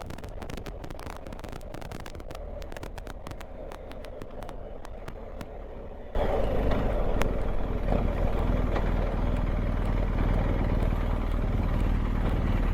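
Ride noise from a BMW R1250GS Adventure with its boxer twin engine. For about six seconds it is quieter, with a stream of faint ticks. Then it jumps abruptly louder into a steady, heavy low rumble of engine and wind.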